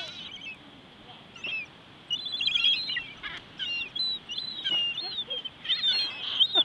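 A flock of seagulls calling, many short squawks overlapping one another; the calling is sparse at first and grows busy about two seconds in. The gulls are calling to the rest of the flock that there is food.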